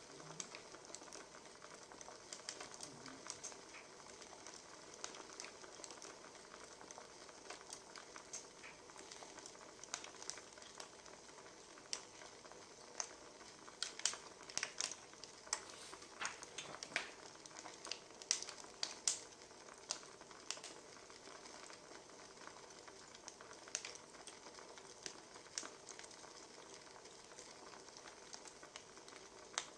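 Wood fire crackling, with a steady soft hiss and irregular sharp pops of burning logs, coming thickest about halfway through.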